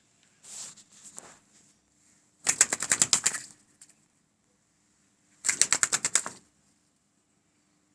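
A bird's wings flapping in short flurries of rapid beats: a soft flutter near the start, then two loud flurries of about a second each.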